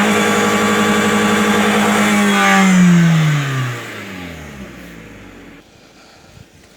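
Car engine held at high revs with the throttle floored, then the revs fall away as the pedal is released, about two and a half seconds in, and the sound dies down to near quiet a few seconds later.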